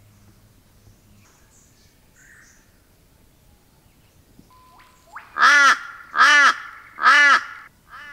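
A crow-family bird cawing loudly three times in quick succession, starting about five seconds in, then a fainter caw near the end.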